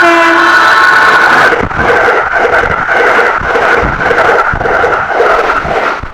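Piano music ends about a second and a half in. A train then runs past with a regular beat of about one and a half strokes a second.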